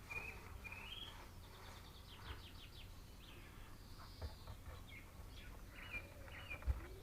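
Small garden birds chirping and singing, with short rising notes and a quick trill, over faint steady background noise.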